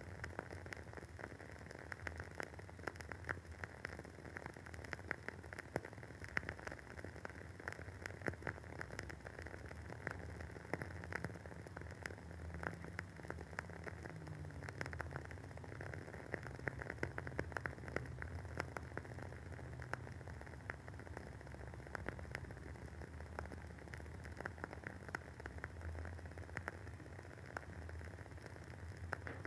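Wooden wick of a WoodWick candle burning with a dense, irregular crackle of small pops, over a faint low hum.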